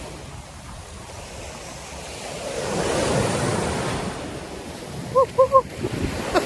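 Sea surf washing on a beach, swelling about halfway through, with wind on the microphone. Near the end come three short high-pitched notes in quick succession.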